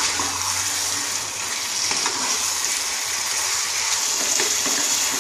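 Chicken pieces in masala sizzling in a pan while a wooden spatula stirs them: a steady, watery hiss, because the meat still holds liquid that has not yet cooked off.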